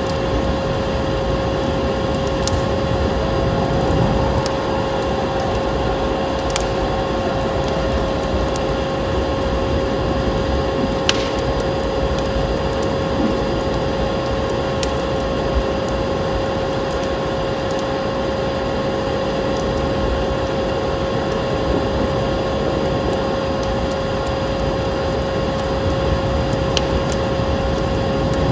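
Wood fire in a fireplace crackling, with a few sharp pops over a steady rushing noise and a constant hum.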